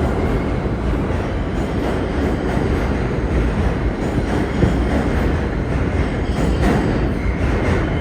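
New York City Subway train running through the station: a loud, steady rumble of wheels on rail, with a faint wheel squeal near the end.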